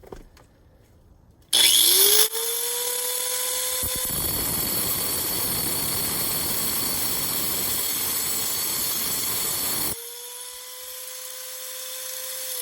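Angle grinder switched on about a second and a half in, its whine rising as the disc spins up. It then grinds into a quartz geode with a harsh, gritty noise for about eight seconds. Near the end it lifts out of the cut and runs free with a steady whine.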